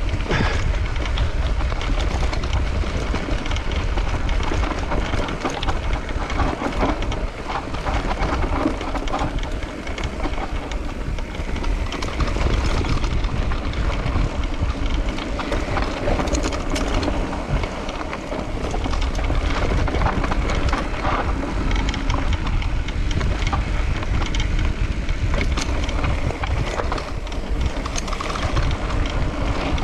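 Mountain bike descending a dirt trail: wind rushing over the camera microphone, with a steady rumble and constant small rattles and clicks from the tyres and bike over rough ground.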